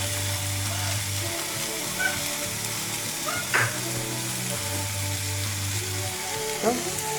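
Cubes of toast bread frying in butter in a pan, sizzling steadily, with a couple of short sharp sounds about halfway through and near the end.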